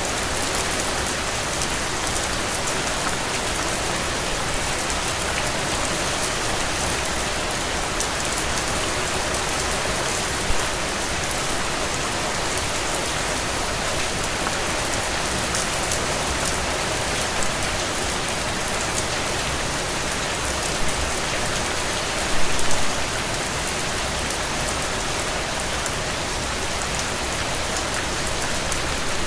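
Steady rain falling, a dense even patter with sharper individual drop hits, and a few louder splashes, the largest about 22 seconds in.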